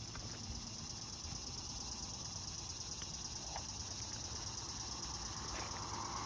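Outdoor ambience: a steady high insect drone over a low rumble, with a vehicle growing louder near the end and a few faint clicks.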